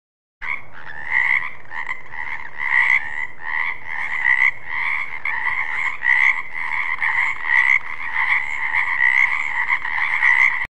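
Frogs croaking in a continuous chorus, the calls pulsing about two to three times a second. It starts abruptly and cuts off abruptly just before the end.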